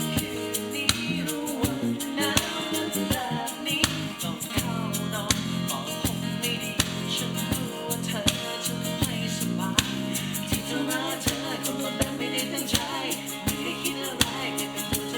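Band playing a pop-rock song, with guitar, a drum kit keeping a steady beat, and singing.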